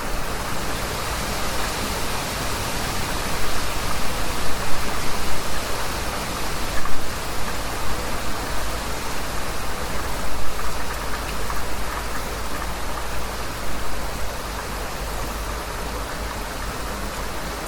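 Heavy rain falling, a dense, even hiss across the whole range, growing louder and more uneven through the middle before settling back.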